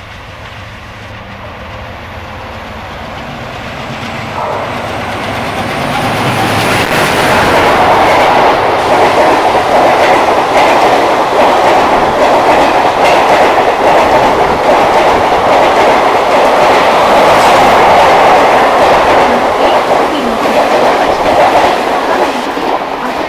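WDM-3D diesel locomotive and its passenger coaches running through at speed: the sound builds over the first several seconds as the locomotive approaches, then the coach wheels give a steady loud rush and clatter over the rails, easing slightly near the end.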